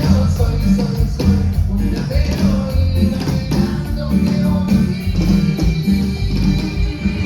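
Live band playing cumbia, with drum kit and bass keeping a steady beat and a melody line holding a long note midway.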